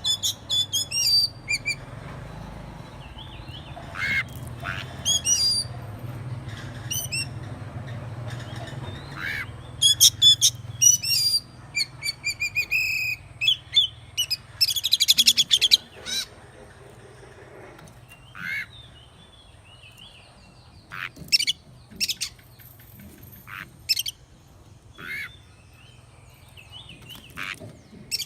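Oriental magpie-robin singing: varied, clear whistled phrases and quick trills, broken by short pauses.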